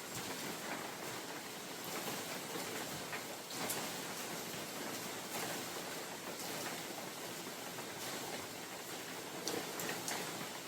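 Steady rain falling in a forest, an even hiss with scattered drops ticking on leaves and nearby surfaces, while wind rustles the foliage.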